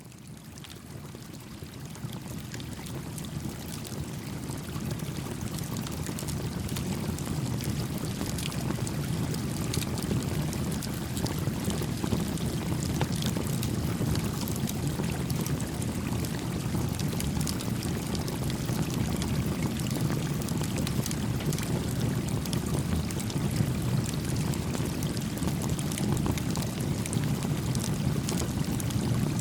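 A small stream flowing steadily, with faint, scattered crackles from a small wood campfire; the sound fades in over the first few seconds.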